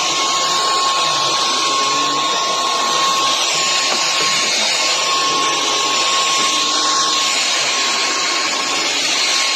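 Hoover HF3 cordless stick vacuum running steadily: a constant rush of suction with a steady high motor whine.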